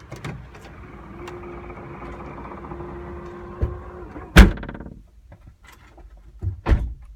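BMW X3 (F25) tailgate: a motor hums steadily for about four seconds as it closes, then the tailgate shuts with a loud thud and a short rattle. Two more sharp knocks follow near the end, the tailgate knock the owner is showing.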